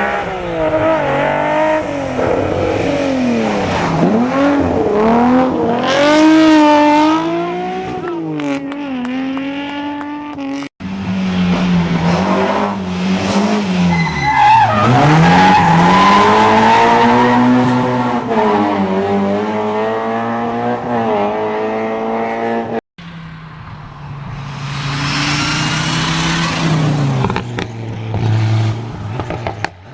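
Rally car engines revving hard and falling back through gear changes as the cars drive the stage, in three separate stretches broken by abrupt cuts about 11 and 23 seconds in.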